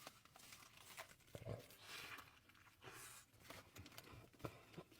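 Faint close-up eating sounds: soft, irregular mouth clicks and chewing with brief rustles, very quiet overall.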